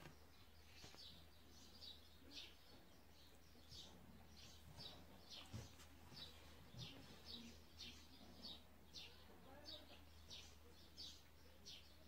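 Faint small-bird chirping: short high chirps repeated about twice a second, over a low steady hum.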